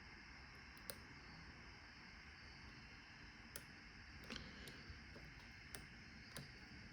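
Faint, scattered clicks of lock picks working inside a padlock, about six over several seconds, over a steady low hiss.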